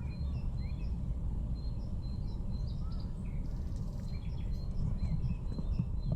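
Small birds chirping and trilling repeatedly over a steady low rumble.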